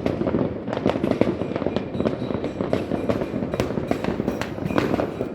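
Many fireworks and firecrackers going off at once, a dense continuous crackle of overlapping bangs and pops.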